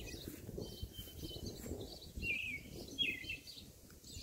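A bird calling in short chirps, the clearest two about two and three seconds in, over a low rustling noise.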